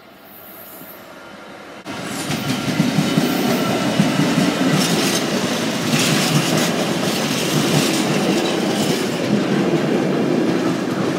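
British Rail Class 66 diesel freight locomotive passing close by, its engine running and its wheels clattering over the rails, followed by container wagons. The sound jumps suddenly louder about two seconds in.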